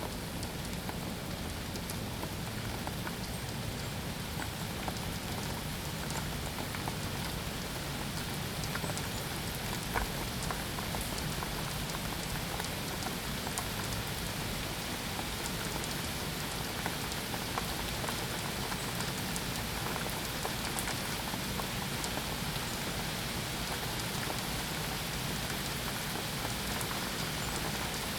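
Steady rainfall, with many small drops ticking and pattering on surfaces.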